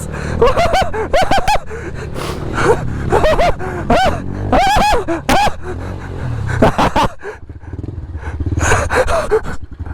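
Small pit-bike engine running low and steady while the riders let out short yells and exclamations as they push through deep water.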